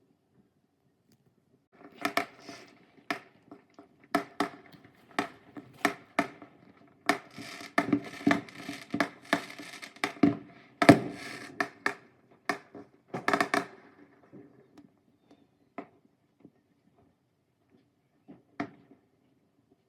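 Fireworks going off: a fast run of sharp bangs and pops, with dense crackling in the middle, then thinning to a few single pops near the end.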